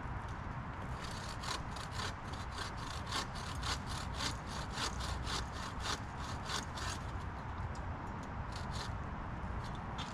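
Hand saw cutting through fallen wood in quick back-and-forth strokes, about three a second. It pauses briefly after several seconds, then a few more strokes follow near the end.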